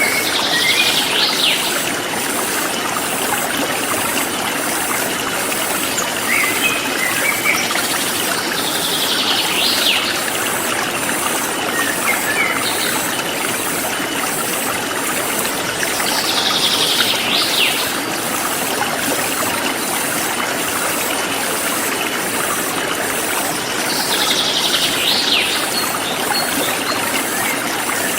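Steady flowing stream, with a bird singing a short high phrase about every eight seconds, four times, and a few fainter chirps in between.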